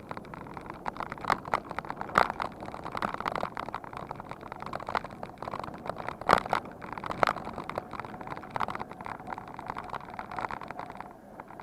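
A bicycle rattling over rough ground: many irregular clicks and knocks over a steady rush of noise, dipping briefly near the end.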